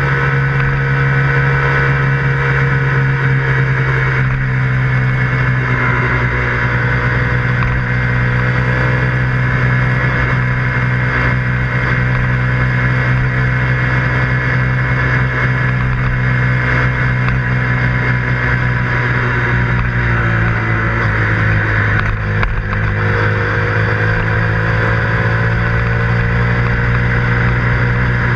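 KTM 125 Duke's single-cylinder four-stroke engine running steadily as the motorcycle cruises, heard from on board. Its note drops for a moment about twenty seconds in, then climbs again.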